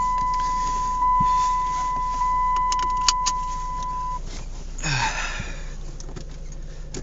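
A car's steady, high electronic warning tone sounds and cuts off abruptly about four seconds in. A few sharp clicks and a jangle come just before it stops, as of keys being handled.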